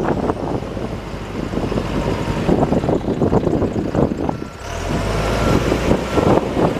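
John Deere 310SJ backhoe's four-cylinder diesel engine running, with a steady mechanical rattle. About four and a half seconds in the engine note grows heavier, and faint short beeps from a reversing alarm join it.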